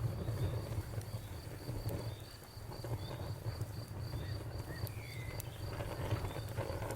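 Campfire burning: a low rumble of flames with scattered small crackles. A cricket chirps steadily in the background, about three chirps a second.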